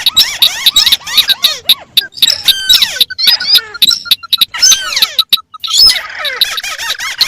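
Recorded calls of several rice-field crakes, including the white-browed crake, played together: a dense, overlapping chatter of rapid squeaky arched notes that do not keep to one rhythm, with a buzzier held note near the end.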